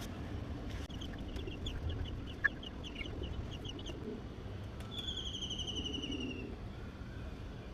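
Bird calls: a fast run of short high-pitched notes, about five a second, for the first few seconds, then one long falling whistle about five seconds in, over steady low background noise.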